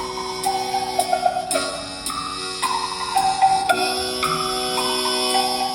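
Live band playing a song's instrumental intro: sustained chords that change every couple of seconds under a stepping melody, with light, regular percussion clicks.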